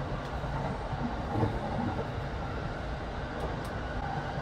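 Cassiopeia sleeper train running, heard inside a passenger cabin as a steady low rumble, with two light clicks near the end.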